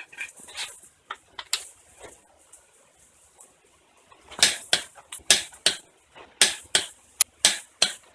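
A series of sharp clacks or knocks starting about halfway through, roughly three a second and often in pairs, after a stretch of scattered faint clicks.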